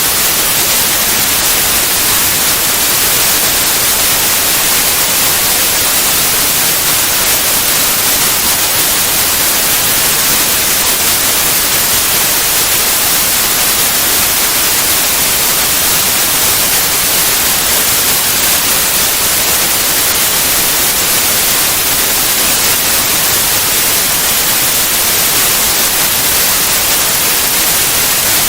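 Steady, loud white noise: an even hiss across all pitches, strongest in the highs, with no change.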